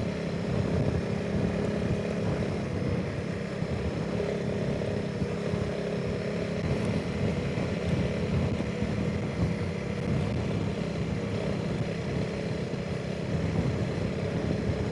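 Honda CRF300 Rally's single-cylinder engine running at a steady cruising speed, with wind noise buffeting the rider's microphone.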